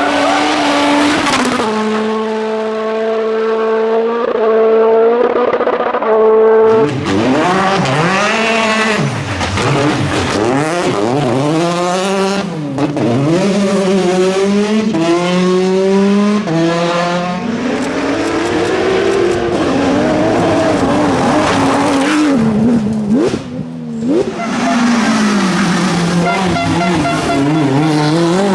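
Rally car engine at high revs. The pitch is held steady for the first few seconds, then rises and falls sharply again and again as the car is driven hard through gear changes and lifts, with a few sharp cracks along the way.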